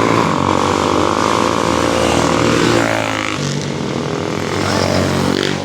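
Motorcycle engines running, their pitch shifting and dropping about halfway through.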